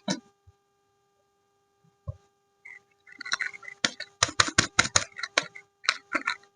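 Soap packaging being unwrapped by hand, with crinkling wrapper and quick clicks. After a couple of near-quiet seconds with a few light taps, there is a dense run of crackles about halfway in.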